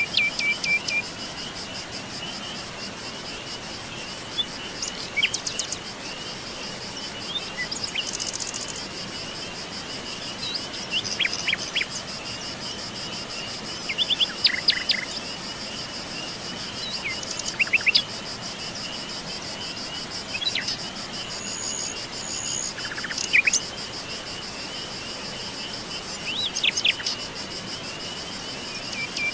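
Forest ambience: wild birds give short, sharp chirps and calls every few seconds over a steady, high-pitched insect trill.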